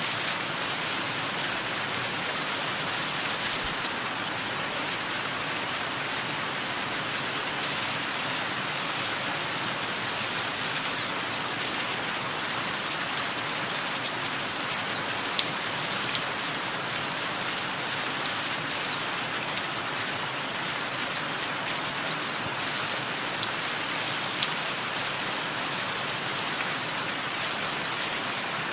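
Steady rain falling, with a small bird calling over it in short, high, downward-sliding chirps, often in pairs or threes, every second or two.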